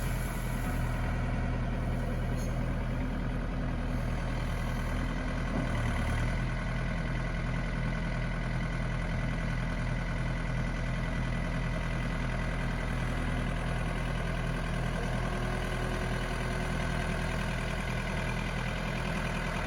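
Farm tractor engine running at a steady idle. Its note shifts slightly about six seconds in.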